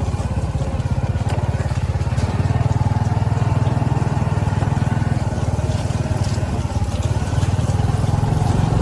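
A vehicle engine running steadily with a fast, even low throb.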